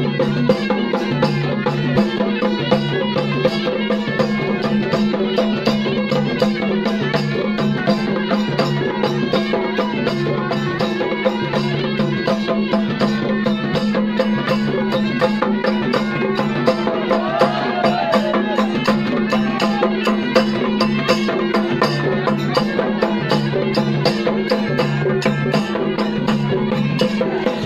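Traditional folk music: fast, even drumming over a steady low held drone, with a short gliding melodic line about two-thirds of the way through.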